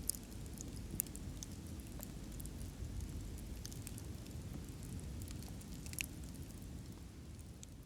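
Campfire crackling: a steady low rumble of burning wood with scattered sharp pops and snaps from the logs, growing a little quieter near the end.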